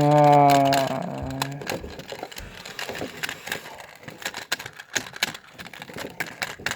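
A held, steady hum-like voice tone for the first second and a half, then scattered small clicks and taps of a toy monster truck and its plastic packaging being handled.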